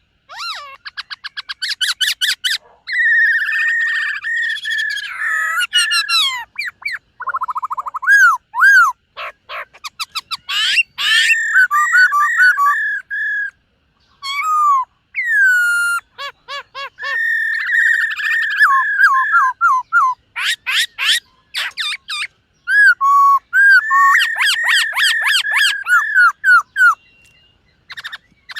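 Black-throated laughingthrush singing loudly: a varied run of clear whistled phrases, rapid trills and sliding notes, broken by short pauses.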